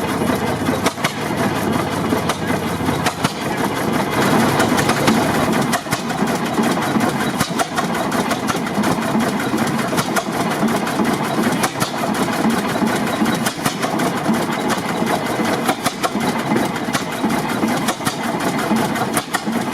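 1927 Eagle 40 HP tractor engine running steadily, with a busy, continuous clatter of many quick clicks.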